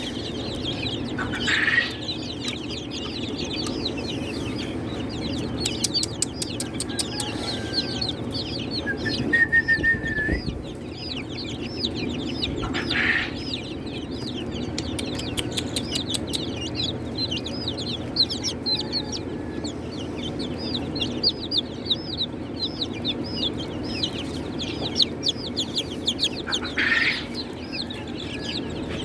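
A brooder full of young chicks peeping continuously in many rapid, high, overlapping peeps, with a few louder calls now and then, over a steady low hum.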